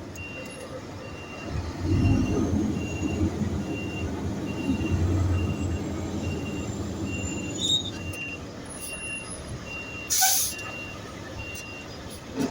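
Garbage truck backing up: its reversing alarm beeps about twice a second over the running engine, which swells about two seconds in. A short loud hiss comes about ten seconds in, and the beeping stops near the end.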